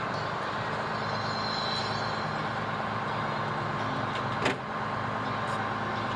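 Fire truck engine idling steadily, with a single sharp clack about four and a half seconds in.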